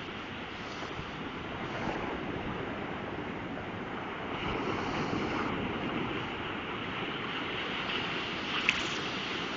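Ocean surf washing on a beach in steady waves, with wind buffeting the microphone. A brief sharp click near the end.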